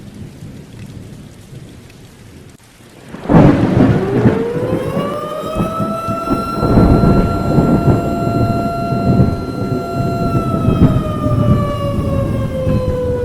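Mechanical siren winding up, holding a steady wail, then slowly winding down, over a loud rumbling noise that starts suddenly about three seconds in.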